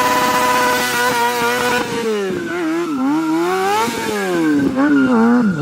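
Motorcycle engine revving: held at a steady high pitch for about two seconds, then the revs rise and fall repeatedly.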